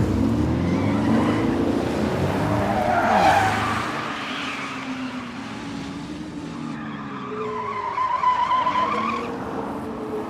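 Vehicle engines rising and falling in pitch, with a high squeal about three-quarters of the way through, like cars skidding.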